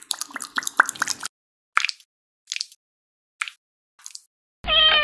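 Soft, wet kitchen plops and squishes: a quick cluster at first, then single plops about a second apart. Near the end a sustained high cat meow begins.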